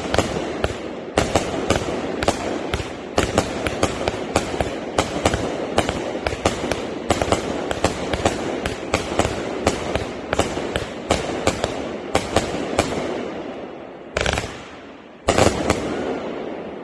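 Consumer 36-shot firework cake firing: a dense, rapid run of sharp cracks and pops over a continuous rumble of shots and breaks, thinning out about 13 seconds in. Two last loud bangs follow, about a second apart, then the sound dies away.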